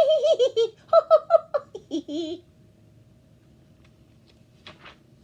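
A woman's voice giggling and laughing in quick, high-pitched bursts for about two and a half seconds, then it stops and only faint room noise remains.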